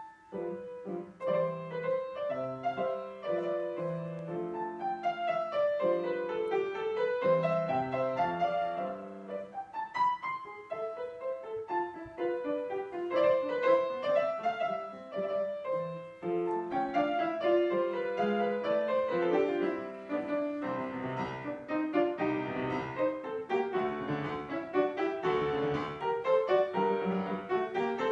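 Piano playing classical music, with quick runs of notes sweeping up and down.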